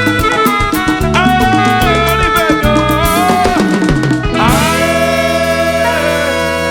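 A band playing traditional music: a driving drum rhythm under gliding melodic lines, then about four and a half seconds in the band comes to rest on a long held chord that slowly fades.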